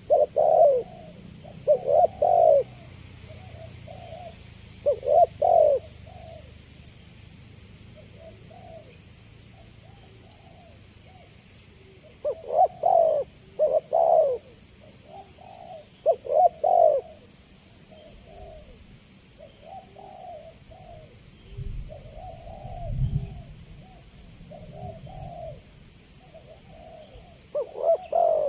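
Spotted doves (tekukur) cooing: loud phrases of a few quick coos come every few seconds, with fainter coos in between. A steady high hiss runs underneath, and there is a brief low rumble about three-quarters of the way through.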